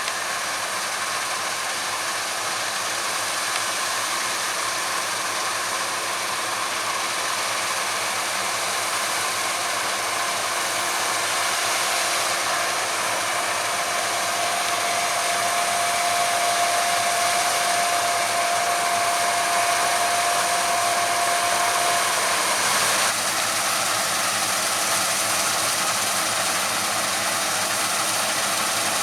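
Claas Lexion 670 combine harvester running steadily while harvesting wheat, a dense whooshing mechanical noise. A thin steady whine comes in about halfway through and stops later on, and the sound changes abruptly soon after.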